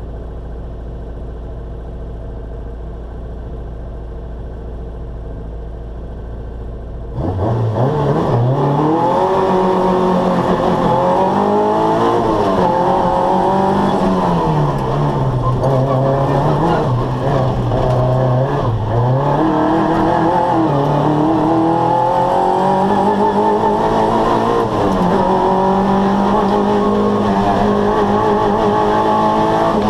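Opel Corsa A race car's engine heard from inside the cabin: idling steadily, then about seven seconds in it launches hard and runs loud at high revs, its pitch climbing and dropping again and again up the hill climb.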